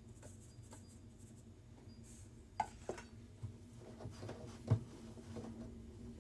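Hands working a soft, sticky dango dough of rice flour and potato starch: quiet rubbing and squishing with a few light knocks against the bowl, the loudest about halfway through, over a steady low hum.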